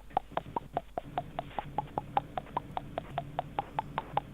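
Telephone hold music: short, plucked-sounding notes at about five a second, stepping between a few pitches over a low hum, thin as heard through a phone line.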